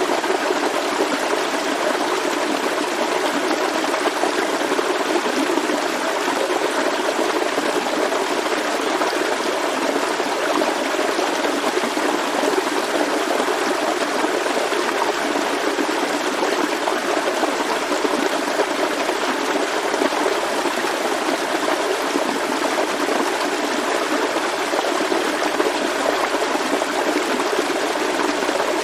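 Forest stream flowing over stones: a steady, unbroken rush and gurgle of running water.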